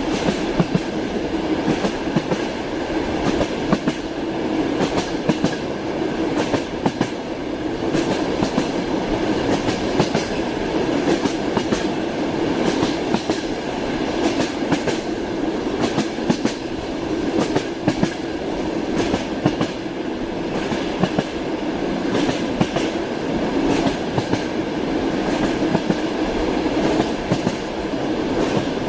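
Passenger train running at speed, heard from inside the carriage: a steady rumble with the wheels knocking over rail joints, many sharp clacks throughout.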